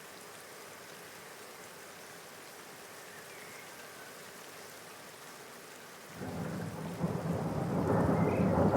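Steady rain falling. About six seconds in, a deep rumble of thunder sets in and swells much louder.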